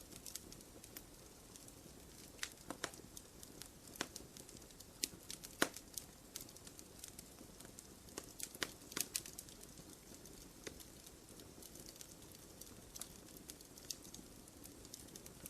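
Wood fire crackling: irregular sharp pops and snaps, a few louder ones, over a soft low hiss of burning.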